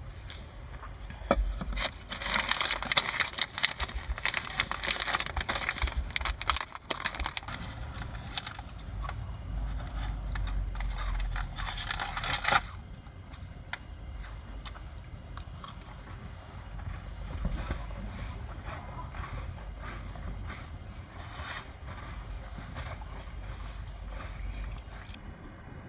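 Dense crinkling and crunching, like something being crumpled or torn, for about ten seconds, cutting off abruptly. Sparser, quieter crackles over a low rumble follow.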